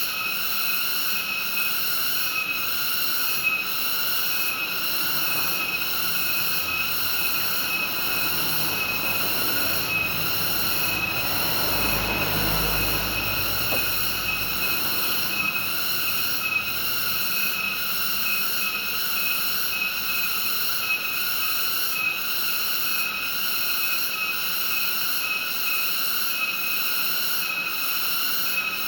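A steady chorus of insects trilling in several high, evenly pulsing tones. A low rumble swells in about a third of the way through and fades again a few seconds later.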